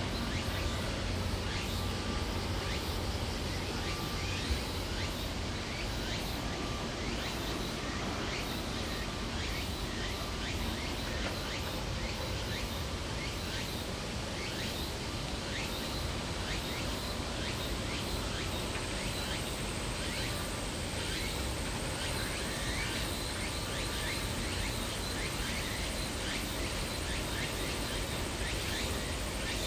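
Steady outdoor background noise: a low rumble with a light hiss and many faint scattered ticks, with no single event standing out.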